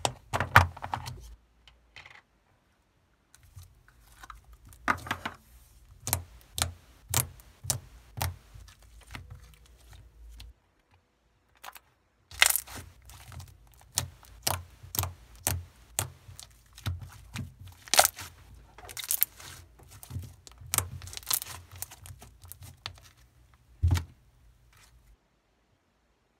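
Crinkling and tearing handling noises, in runs of sharp crackles with short pauses, and one louder knock near the end.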